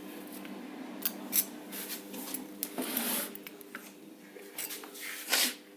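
Small metal parts clinking and scraping against each other in a few sharp knocks and one longer rasp, over a steady electrical hum from a powered microwave-oven transformer.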